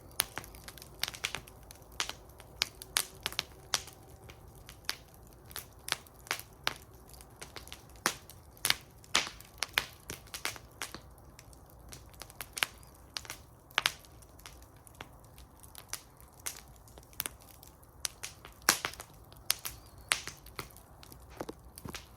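Wood fire in a fire bowl crackling, with irregular sharp pops and snaps several times a second over a faint low rumble of flames.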